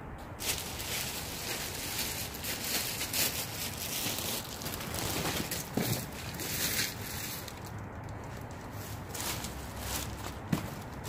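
Rustling and handling noises, with scattered small knocks and clicks.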